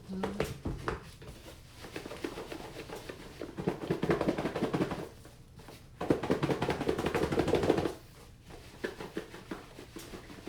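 A container being shaken in two bursts of fast, dense rattling, each about one and a half seconds long, with lighter rattling in between.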